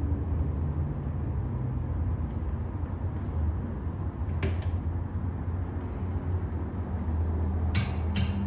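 Steady low mechanical hum, with a sharp click about halfway through and a quick cluster of clicks and rattles near the end.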